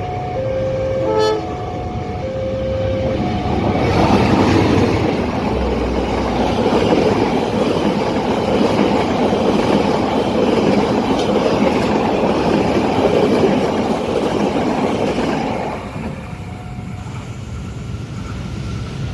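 Level crossing warning alarm alternating between two tones, with a short train horn toot about a second in. From about four seconds in, a long train runs over the crossing with loud wheel and rail noise for some twelve seconds, then the noise drops away.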